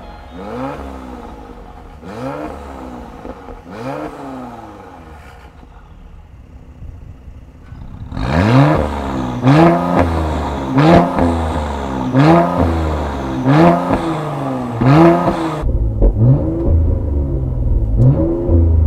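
Mercedes-AMG C43's M276 3.0-litre twin-turbo V6, breathing through an aftermarket catted downpipe, free-revving at standstill in repeated short blips about every one and a half seconds. The first four blips are in Comfort mode and quieter. From about eight seconds in, in Sport mode, the blips are much louder, with a low rumble under them near the end.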